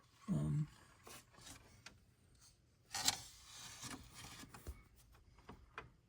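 Faint scattered clicks and rubbing of parts and tools being handled while a flange is fitted onto a stud under a car, with a brief hum of voice just after the start.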